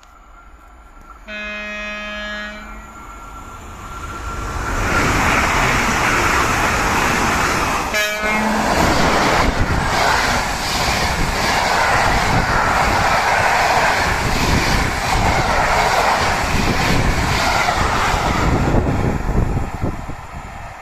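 A train horn sounds a chord of tones for just over a second, then a train passes at speed with loud rolling and rushing noise for about fifteen seconds. A second, very short horn note comes about eight seconds in.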